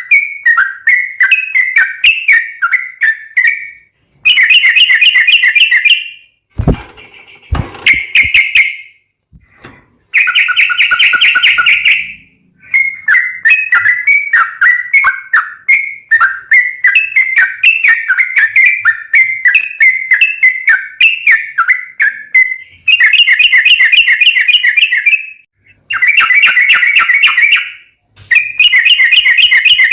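Yellow-vented bulbul (trucukan) singing loudly in repeated bouts of quick, bubbly, chattering notes, each bout a few seconds long with short pauses between. There are two thuds about seven seconds in.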